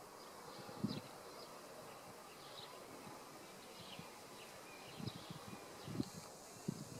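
Faint birds chirping: scattered short high chirps, with a few soft low thumps about a second in and twice near the end.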